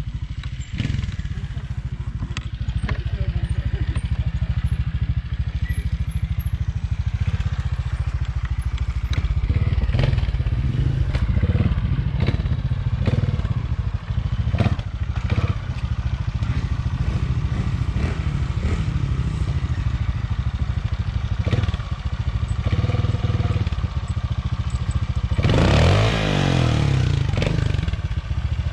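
Trials motorcycle engine running at low revs with short blips of throttle, over repeated knocks and clatter as the bike is hopped and worked through an obstacle section. A loud burst of revving comes near the end.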